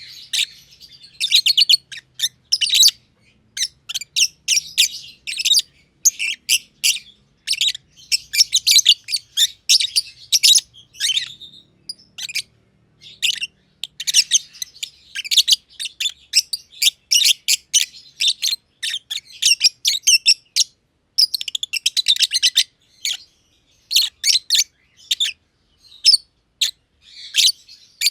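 Masked lovebirds (green and green pied personata) chirping in quick, high-pitched runs of sharp notes, with short pauses between the bursts.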